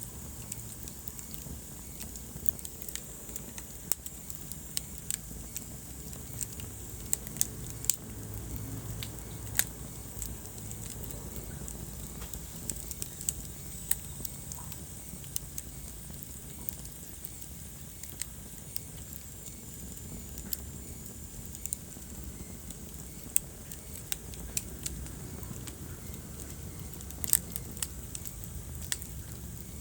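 Wood fire crackling in a fireplace: irregular sharp pops and snaps over a steady low rumble from the burning logs.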